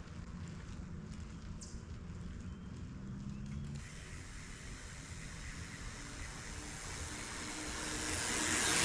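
Surly Krampus mountain bike rolling along a dirt trail, with tyre and drivetrain noise over a low rumble. A rushing noise builds over the last few seconds.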